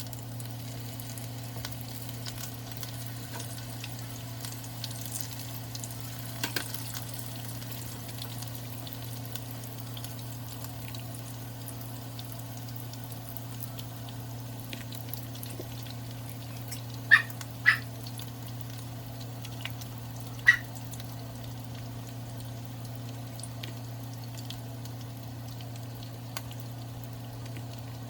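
Tacos frying in hot oil, a steady sizzle with small crackles. Three short sharp sounds stand out over it, two close together and one a few seconds later.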